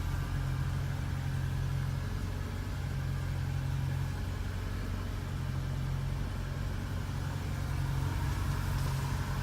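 1974 BMW 2002tii's four-cylinder engine idling steadily.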